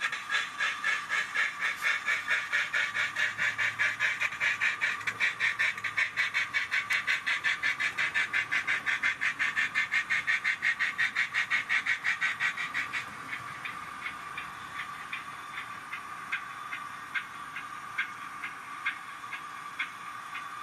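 Sound-fitted Accurascale J68 model steam tank engine's decoder playing rapid, even exhaust chuffs through its speaker, about five beats a second. Roughly two thirds of the way in the chuffs drop to a lighter, sparser beat.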